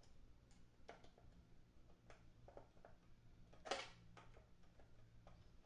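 Faint, scattered clicks of a hand tool working small metal fasteners during amplifier reassembly, with one louder short scrape about two-thirds of the way through.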